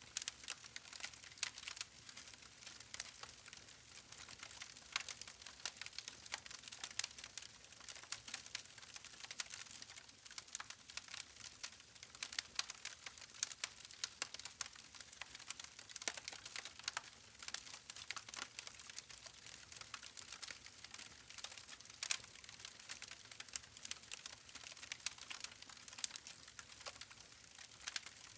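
Wood campfire crackling: burning logs give a constant, irregular run of quick, sharp pops and snaps over a faint hiss.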